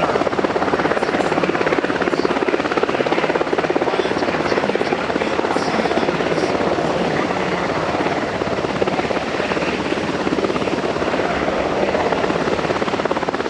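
US Coast Guard MH-60T Jayhawk helicopter running close by, its main rotor beating in a fast, steady chop over loud turbine noise.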